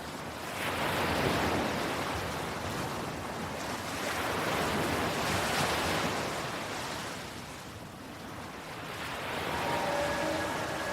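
Ocean waves swelling and washing in and out in slow surges, a few seconds apart. Faint steady tones come in near the end.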